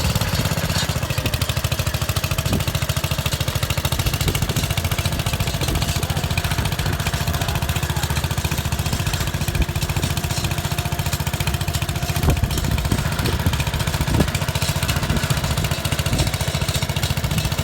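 Garden pulling tractor's engine running steadily with a fast, even firing beat, plus a few sharp clicks about two-thirds of the way through.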